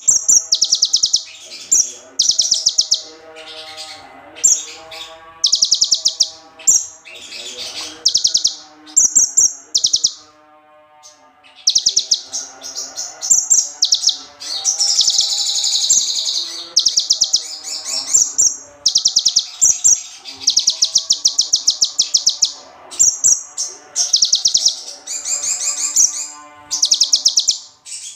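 Small songbird singing tutor-song material of the ciblek (prinia) type: loud bursts of rapid, high, buzzy trills, each about a second long, repeated with short pauses.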